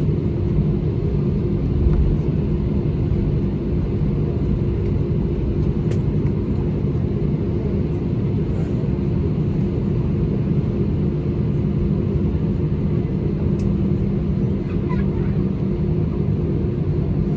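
Steady engine and airflow rumble of an Airbus A320-200 heard inside the passenger cabin, with a low, even hum of a few held tones.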